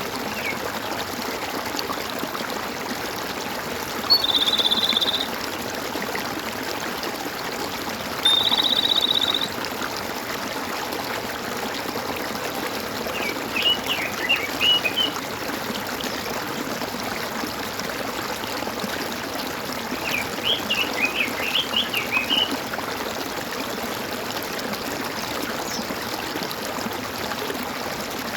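Steady running water of a gurgling stream, with birds calling over it: twice a buzzy, rapidly pulsed trill lasting about a second, then later two short bursts of quick, high chirping notes.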